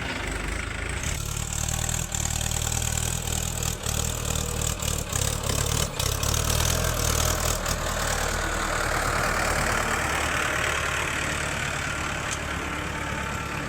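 A heavy diesel engine on earthmoving or farm machinery runs steadily. Several sharp knocks or clanks come in the first half, and a rougher, hissier tone swells in the second half.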